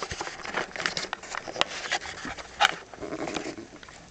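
A house cat making small sounds close by, amid rustling and scattered sharp clicks.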